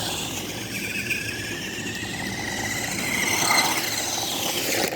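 Toy RC car's electric motor and gears whining as it drives, the pitch rising and falling with its speed.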